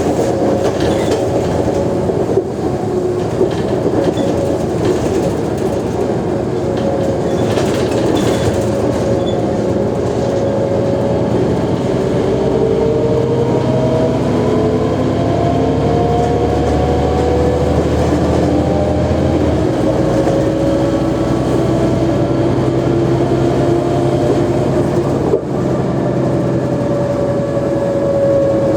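Mercedes-Benz O345G articulated city bus driving, its diesel engine droning under whining drivetrain tones that slowly rise and fall with road speed. The low drone changes pitch about twenty seconds in. The uploader hears wear in this bus.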